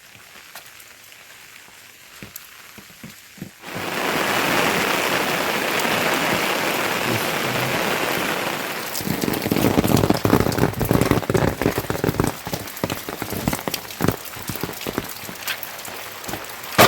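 Rain. Scattered drips at first, then a sudden loud, steady hiss of rain about four seconds in, turning after a few more seconds into a heavier, uneven clatter of drops that thins out near the end.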